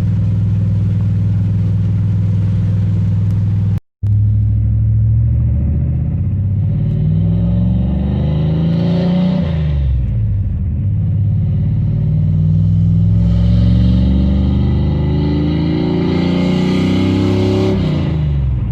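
Carbureted Vortec small-block V8 with an LT4 hot cam idling, then revved up twice. The first rev climbs and falls back after a few seconds; the second builds more slowly before dropping back to idle near the end. There is a brief cut to silence about four seconds in.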